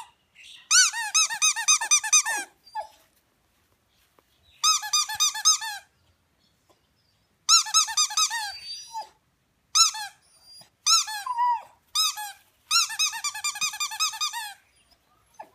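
Squeaky toy squeaked in quick runs of chirps, about seven a second, in several bursts with pauses between. A dog cries along with the squeaking.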